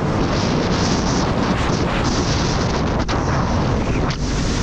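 Jet ski running under way, its engine and the rush of water and wind buffeting the microphone blending into one loud, steady roar.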